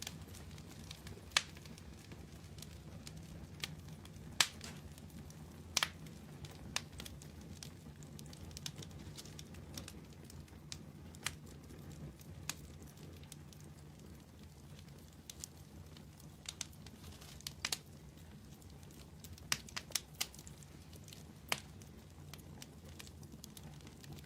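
Wood campfire burning: a low steady rumble with irregular sharp crackles and pops from the burning wood, some louder than others.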